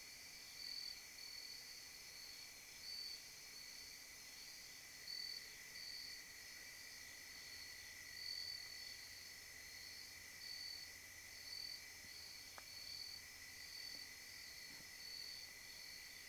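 A faint chorus of night insects, crickets among them: one high steady trill under a higher chirping that pulses in a regular rhythm, about once a second. A single faint tick sounds near the end.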